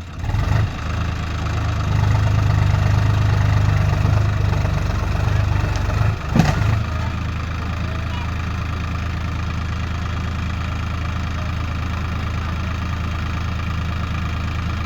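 Heavy diesel engine of the machinery working the stuck tractor, running and rising in load about two seconds in, then settling to a steady idle. A single sharp knock, the loudest sound, comes about six and a half seconds in.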